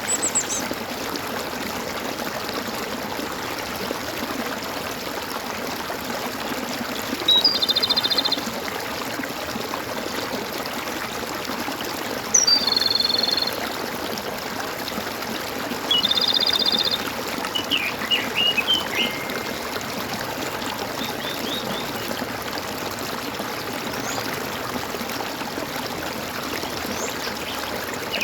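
Water trickling and gurgling steadily, with birds calling over it. There are three loud calls about a second long, roughly seven, twelve and sixteen seconds in, then a few short chirps.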